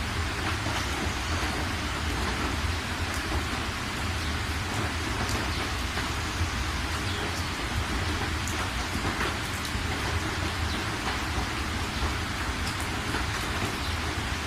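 Steady rain falling, with scattered individual drop ticks over an even wash and a constant low rumble underneath.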